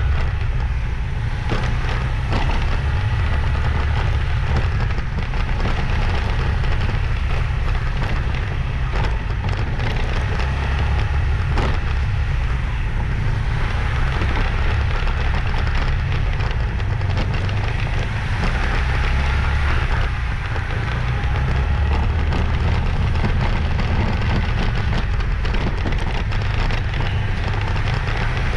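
Wind buffeting the microphone on a moving motorbike, a steady fluttering rumble, with road and engine noise beneath.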